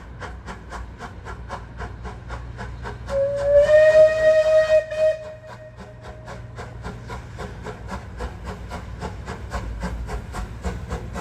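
Steam locomotive whistle blowing for about three seconds, starting with a slight rise in pitch, over a steady rhythmic chuffing of about four beats a second.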